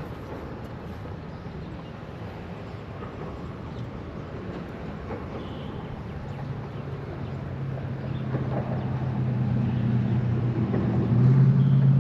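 Low, steady engine hum of an approaching vehicle, growing steadily louder through the second half.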